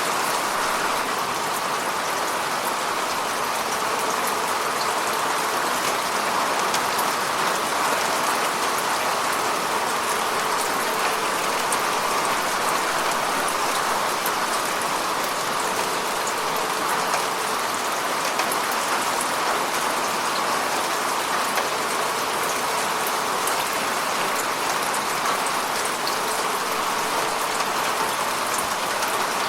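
Heavy rain falling steadily, with a dense patter of individual drops hitting surfaces.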